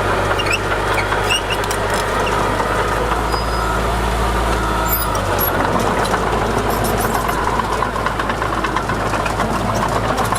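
Heavy diesel engine of earthmoving machinery running steadily at a construction fill site, its low note shifting about five seconds in, with scattered high metallic clicks and squeaks.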